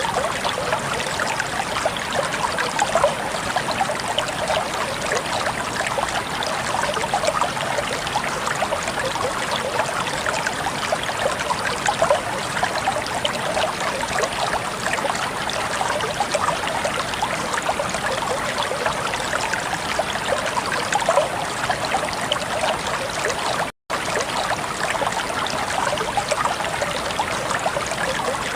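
Water flowing in a small stream, a steady babbling with many small splashes. The sound cuts out for an instant about 24 seconds in.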